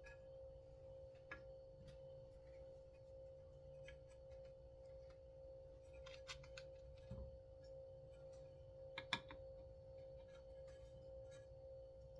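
Faint steady hum with a few light clicks and taps of a chainsaw recoil starter's parts being handled, the loudest a quick double click about nine seconds in.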